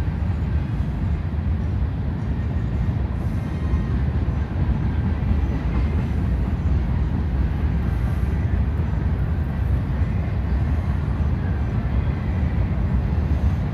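A train passing on a railway line: a steady low rumble.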